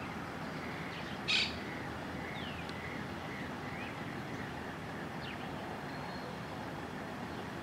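Faint bird calls over a steady background hiss: scattered short chirps and thin whistled glides, some falling and some rising in pitch. About a second in comes one short, hissy burst, the loudest sound.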